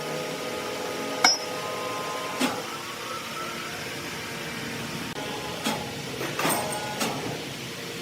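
Sawmill machinery running with a steady hum, broken by sharp metallic clanks: a loud one about a second in, another a second later, and several more near the end.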